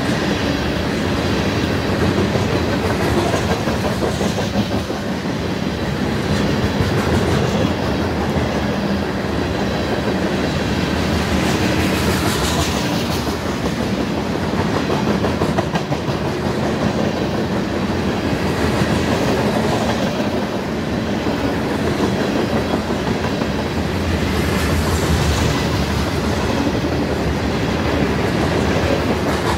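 A train's cars rolling past, loud and continuous, with the wheels clacking over the rail joints, and a brief rise in high-pitched wheel noise about twelve seconds in and again near the end.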